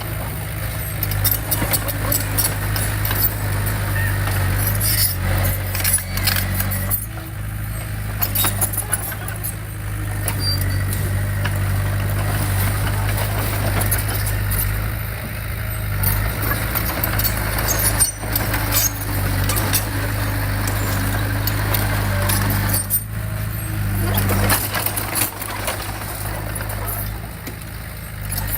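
Bulldozer's diesel engine running steadily under load, with frequent metallic clanks and rattles over it.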